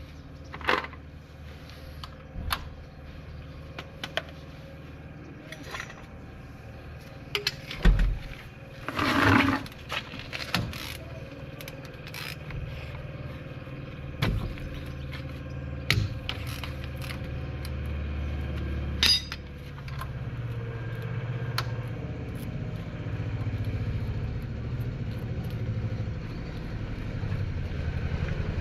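A motor vehicle engine running steadily, louder in the second half. Scattered sharp metallic knocks and clinks of tools sound over it, with a short scraping burst about nine seconds in.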